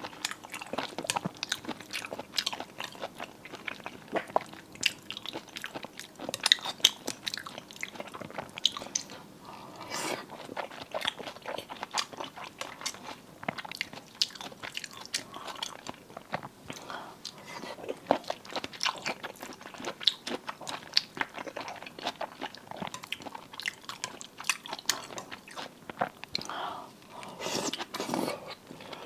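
A person eating seafood: crunching bites and chewing. The crisp clicks come thick and irregular throughout.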